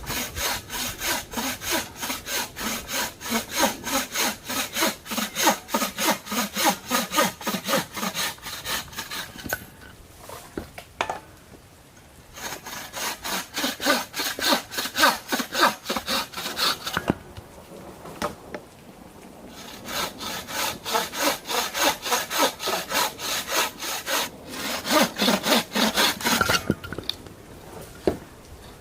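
A hand saw cutting through wood in steady back-and-forth strokes, in three bouts with short pauses between them.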